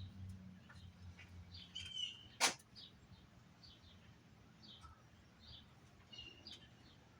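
Birds chirping in short, scattered calls, with one sharp click or knock about two and a half seconds in. A low hum fades out within the first two seconds.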